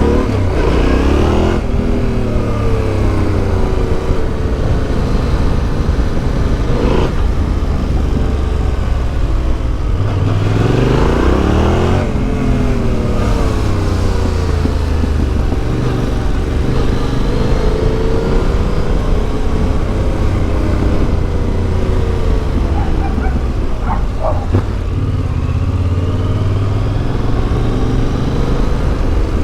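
Yamaha Ténéré 700's CP2 parallel-twin engine through an Akrapovic exhaust, under way: it pulls up through the revs and drops back again and again as the rider accelerates and shifts gears, with sharp climbs near the start and about ten seconds in.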